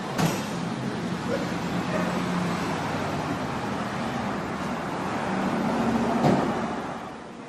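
Truck engine running with road noise, a sharp knock just after the start and a louder bang about six seconds in, after which the sound falls away.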